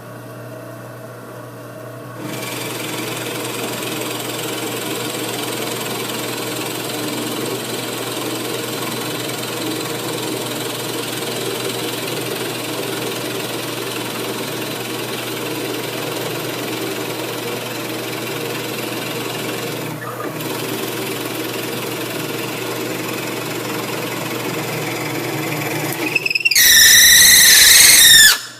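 Drill boring through a board with a 1-inch Forstner bit, the motor running steadily under load. Near the end the bit gives a loud squeal that slides down in pitch, from friction on the edges of the board, which is normal.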